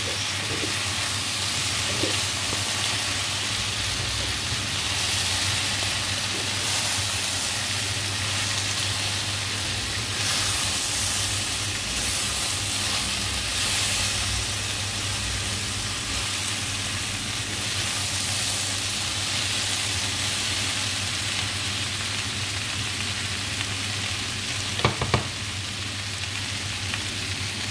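Sliced potatoes, mushrooms and bacon sizzling in oil in a frying pan, stirred and turned with a slotted plastic spatula. There is a steady hiss, with a couple of sharp knocks near the end.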